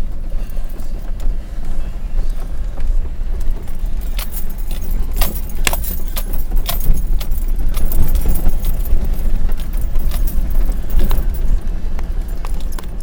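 Jeep driving slowly over a rough, bumpy driveway, heard from inside the cabin: a steady low engine and road rumble, with sharp rattles and clinks from about four seconds in as the vehicle jolts.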